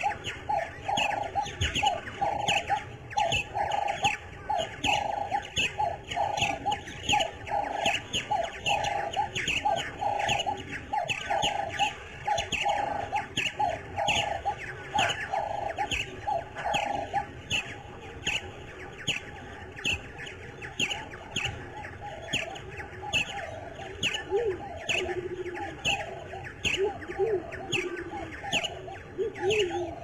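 Wild birds calling: a rapid, steady series of short falling chirps over a lower call repeated about twice a second, which stops about halfway through. Near the end, lower warbling calls come in.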